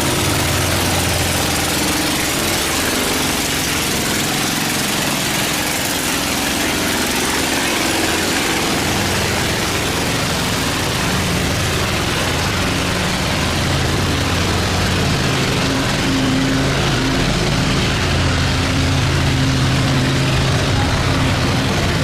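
Boat engines running steadily, with a broad hiss over a low engine hum that changes pitch about halfway through.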